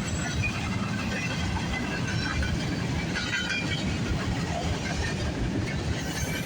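A long freight train's cars rolling past with a steady rumble of steel wheels on the rails, and a few brief high wheel squeaks about halfway through.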